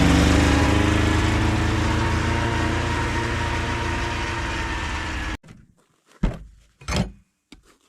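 A vehicle's engine running under way, its pitch and loudness slowly falling before it cuts off abruptly about five seconds in. Two short knocks follow near the end.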